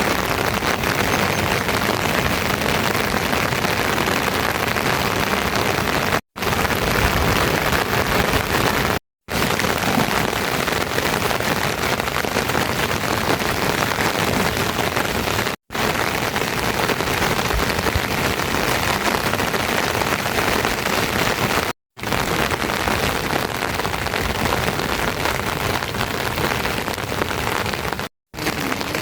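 Steady heavy rain, a dense even hiss, cut by brief moments of total silence five times.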